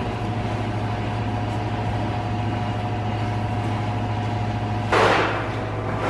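Milking-parlor vacuum pump running with a steady low drone and hum. About five seconds in, a loud rushing hiss starts over it.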